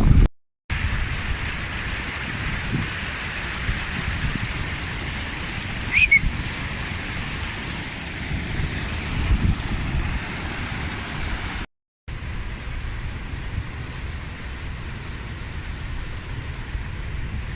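Steady rush of running water from a moorland stream, with gusts of wind buffeting the microphone. A brief high chirp sounds about six seconds in, and the sound cuts out completely twice for a moment.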